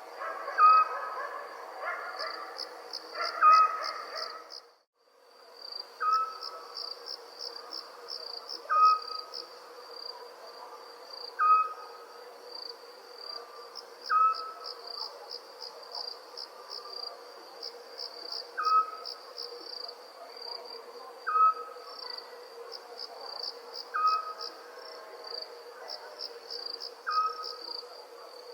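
Crickets chirping in a steady, fast pulsing trill, with a short clipped call repeating about every two and a half to three seconds above it. The sound cuts out briefly about five seconds in, then resumes.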